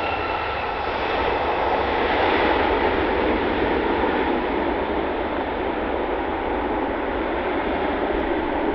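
Jet airliner engines passing close by: a high fan whine that fades in the first second under a steady jet roar, which swells a couple of seconds in and then eases.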